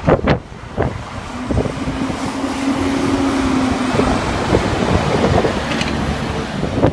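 International snowplow truck working in the snow: its engine runs under a rising rush of noise, with a few sharp knocks near the start and a steady hum for a few seconds in the middle.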